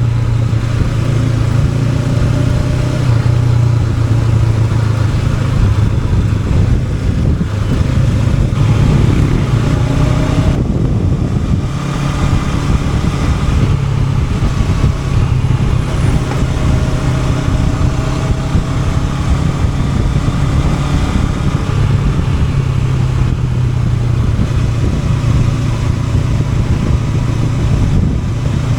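Honda NX500's parallel-twin engine running as the motorcycle is ridden, its note rising and falling with the throttle, over a steady rush of wind and road noise.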